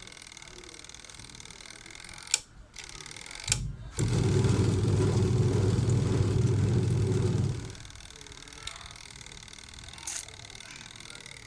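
Two sharp clicks, then an LG semi-automatic washing machine's motor runs with a steady low hum for about four seconds and stops abruptly. The machine is being test-run on freshly reconnected timer wiring that turns out to be wired the wrong way round.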